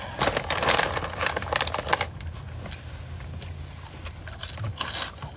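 A person biting and chewing a snack close to the microphone: irregular crunchy bites and chews through the first two seconds and again near the end. A steady low hum sits underneath.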